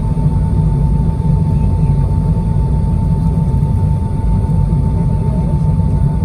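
Boeing 767 cabin noise with the engines running: a steady low rumble under a constant thin whine, heard from inside the cabin.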